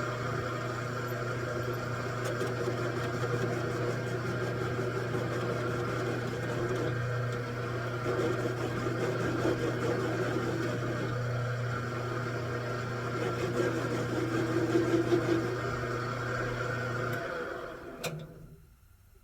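Metal lathe running with a steady low hum and a rougher, varying mechanical noise over it, a little louder around three-quarters of the way through. Near the end it is switched off and winds down within about a second, with a single click.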